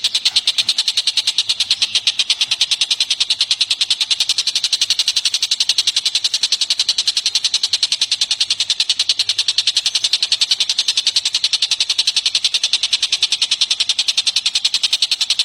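A songbird's rapid, evenly repeated high-pitched notes, about six or seven a second, kept up without a break: a looped masteran call used to train caged songbirds.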